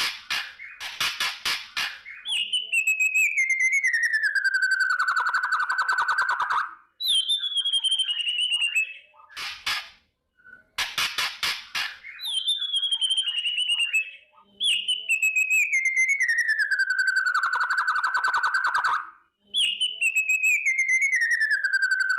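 White-rumped shama (murai batu) singing its 'kretekan' song: short bursts of fast dry rattling clicks, and long rattling trills that slide down in pitch and then hold steady, repeated five times with brief pauses between.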